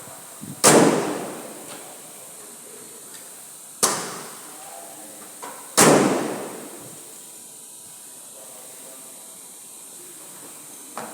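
Three loud, sharp bangs, each dying away over about a second: the first under a second in, the others about three and five seconds later.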